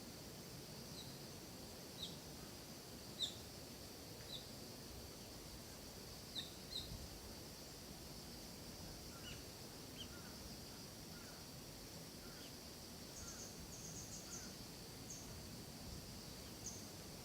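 Forest ambience: small birds give short, high chirps scattered throughout, several quick notes together about three-quarters of the way in, over a steady high-pitched drone of insects.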